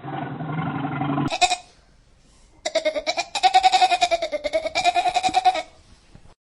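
Animal calls: a short cry, then a long wavering call that pulses rapidly for about three seconds, after the tail of a deeper, lower-pitched sound that ends about a second in.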